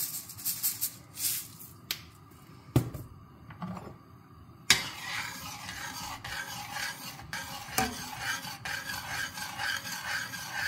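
Seasoning and stirring a pot of tomato sauce: scattered light clicks and knocks, a sharp knock a little before five seconds in, then a steady scraping and rasping of the utensil in the pot.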